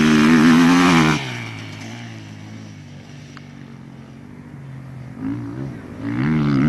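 Off-road motorcycle engine at high revs, loud and wavering in pitch, cutting off about a second in to a lower, quieter steady engine note. A second burst of revving builds up near the end.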